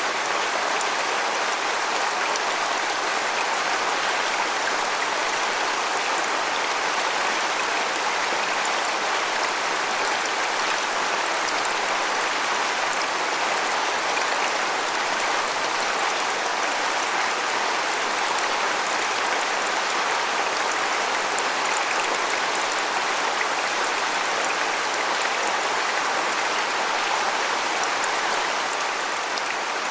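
Waterfall: a steady, even rush of falling water, mostly hiss with little deep rumble.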